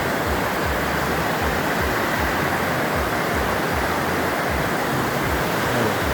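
Waterfall on a stream: water cascading and rushing in a steady, loud roar of noise.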